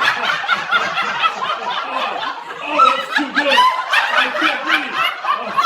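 People laughing: continuous snickering and chuckling.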